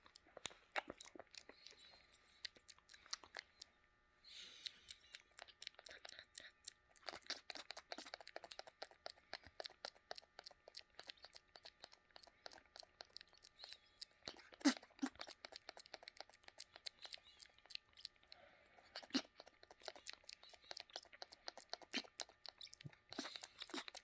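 A cockatoo's beak making rapid, irregular crunchy clicks as it chews and grinds, quiet and close.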